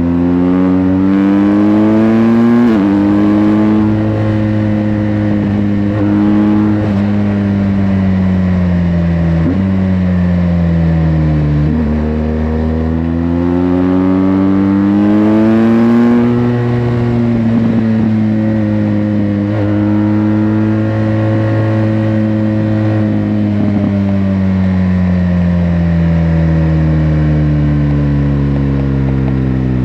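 BMW R1200GS LC's liquid-cooled boxer twin on its stock exhaust, under way: the engine note climbs, drops sharply at gear changes several times, and rises and falls with the throttle.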